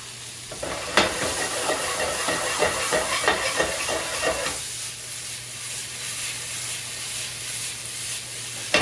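Vegetables and veggie chunks sizzling in olive oil in a pan, with a sharp knock about a second in followed by a few seconds of a spoon stirring and scraping in the pan before the sizzle carries on alone.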